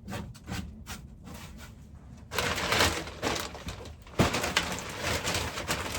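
Rustling and scraping of hands-on work in a chicken coop: a few light clicks at first, louder rustling from a little past two seconds, and a sharp knock about four seconds in.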